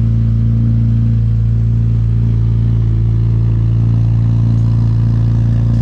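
Car engine and exhaust droning steadily at a constant engine speed, with no revving.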